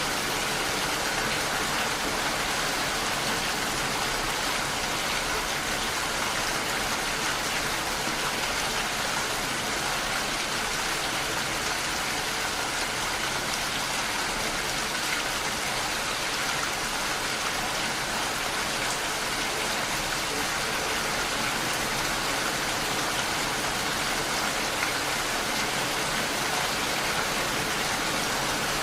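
Steady rainfall: an even, continuous hiss of rain with no pauses or swells.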